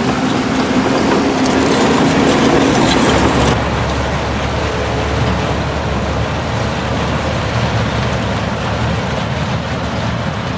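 Heavy diesel earthmoving machinery running at work, loud and continuous. About three and a half seconds in, the sound changes abruptly to a deeper, steadier engine rumble.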